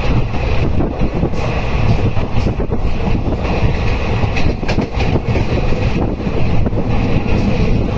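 Local passenger train running, heard from on board: a steady, loud rumble of wheels on the rails with scattered light clicks.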